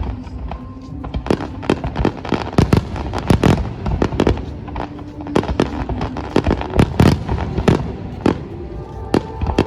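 Fireworks display: a rapid, irregular string of loud bangs from bursting aerial shells, several a second and some overlapping.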